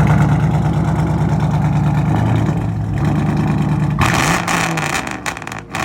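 Car engine running loud and steady, its pitch dropping a little about two seconds in, then a quick rev that rises and falls about four seconds in.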